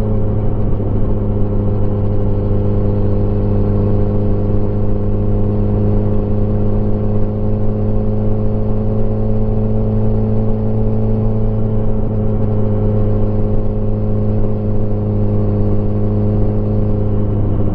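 Motorcycle engine running at a steady cruise, holding an even pitch throughout.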